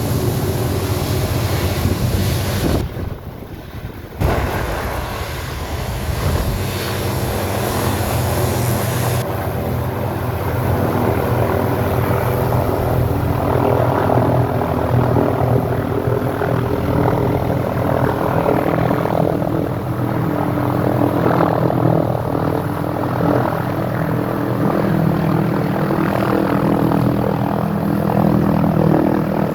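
Helicopter running steadily, its engine and rotor giving a constant pitched hum; the sound dips briefly about three seconds in, then comes back at the same level.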